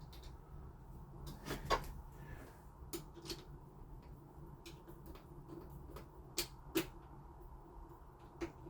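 Scattered sharp clicks and light knocks, about six in all, from hands working on a door lock fitting with screws and a screwdriver.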